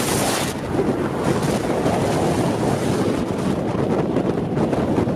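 Strong wind rushing and buffeting over the microphone, a steady noisy roar; a high hiss drops away about half a second in.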